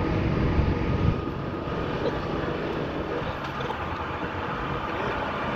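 Tugboat's diesel engine running with a steady low rumble as it pulls a log barge away from the dock, a little louder in the first second.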